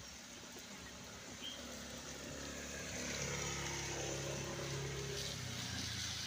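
A truck engine drawing closer and growing louder over the steady hiss of rain, its note holding through the middle and shifting down near the end.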